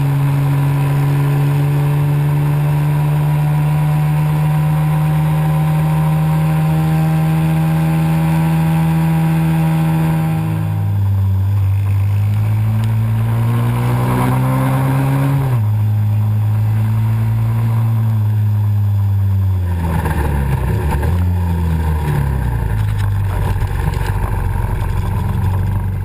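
Pit bike engine running at a steady speed, then dropping in pitch about ten seconds in and rising steadily as the bike speeds up. The pitch drops sharply again, as at a gear change, and rises and falls with the throttle near the end.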